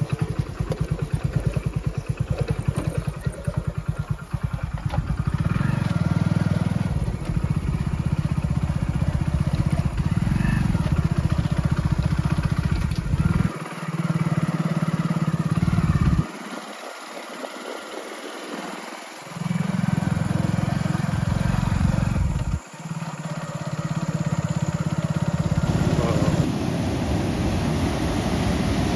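Motorcycle engine running, heard with a heavy low rumble, likely wind on the microphone while riding. The rumble drops away for about three seconds a little past the middle and briefly again about three quarters of the way through.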